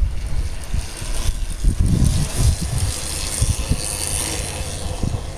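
Pedal cars running on a race track: a tyre hiss that swells and fades about four seconds in, over an irregular low rumble.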